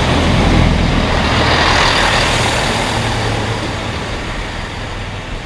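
Class 165 diesel multiple unit passing close by, a low steady engine drone under loud rushing noise that slowly fades.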